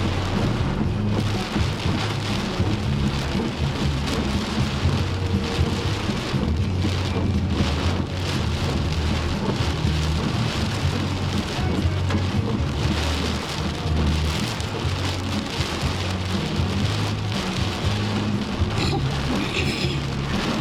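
Heavy rain pouring down steadily in a storm, with a constant low rumble underneath.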